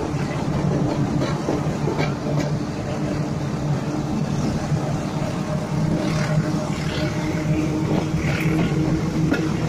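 Moving passenger train heard from aboard, at an open carriage door or window: steady running noise of the wheels on the rails with a low steady hum and scattered short clicks.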